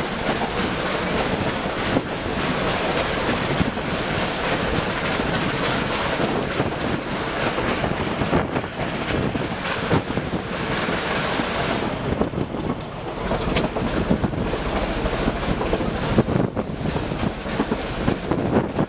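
Narrow-gauge steam-hauled train on the move, heard from the carriage: a steady running rumble dotted with sharp clicks of wheels on rail joints, with wind buffeting the microphone.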